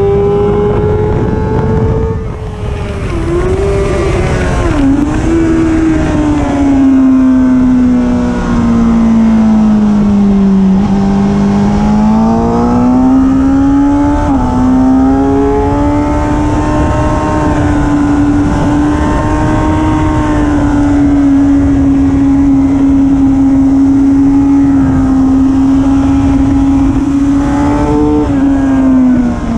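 Suzuki sport motorcycle's engine at speed, heard onboard with wind rushing past. Its pitch falls and rises over the first fifteen seconds as the rider brakes and gets back on the throttle, then holds steady for about twelve seconds before dropping near the end.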